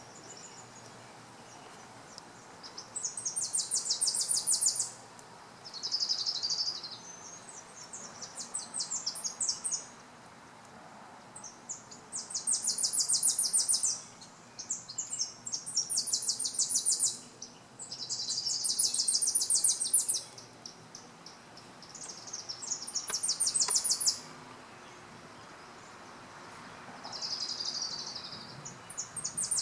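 A small songbird singing, which the recordist thinks is a Tennessee Warbler: repeated high songs of rapid staccato chips, each lasting a second or two and coming every three to four seconds.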